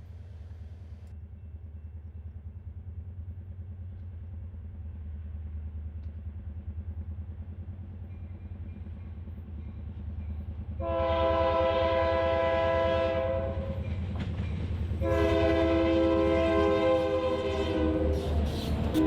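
Marquette Rail diesel freight locomotive approaching with a low engine rumble that slowly grows louder, then sounding its chord horn in two long blasts, one about halfway through and one longer one near the end, with a third just starting as it ends.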